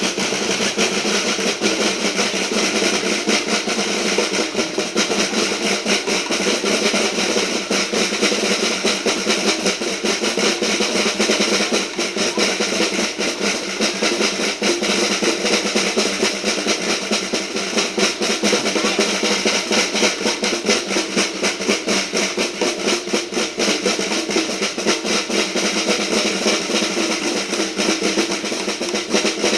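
Children's marching band playing, with snare drums beating a steady, rapid pattern over sustained instrument tones.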